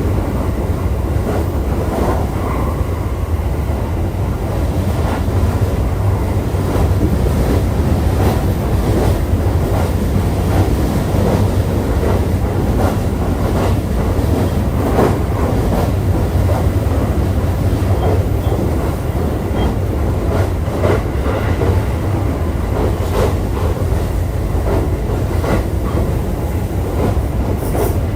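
Running sound heard inside a JR East E531 series electric multiple unit travelling along the line: a steady low rumble of wheels on rail with frequent clicks and clatter from the track.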